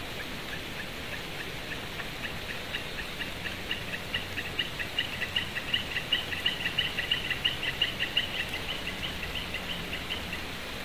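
A rapid run of chirping calls, about four a second, that builds up over several seconds and stops near the end, over a steady hiss of rain.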